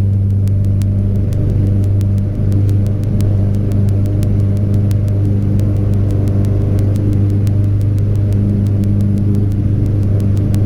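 Cessna 172's four-cylinder piston engine and propeller running at takeoff power during the takeoff and climb-out: a loud, steady drone that holds one pitch.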